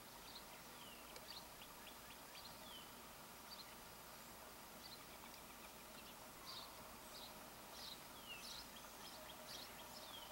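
Faint bird chirps: short high notes and a few quick downward-sliding calls, scattered and coming more often in the second half.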